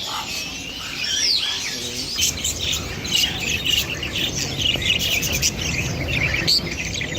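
Many caged birds chirping and tweeting over one another in short, overlapping calls, with a few sweeping whistled glides, over a steady low background hum.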